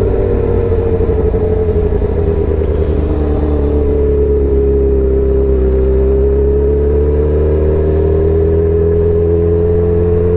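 2003 Yamaha R1's inline-four engine with an aftermarket exhaust, running steadily under way, freaking loud. Its pitch sags a little about halfway through and climbs again near the end.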